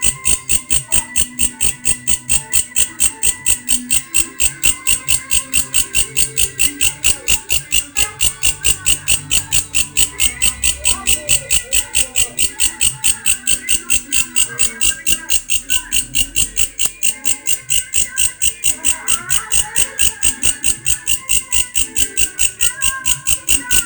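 Grasshopper-type insect (belalang) calling with a loud, even train of rasping pulses, about three to four a second, held without a break.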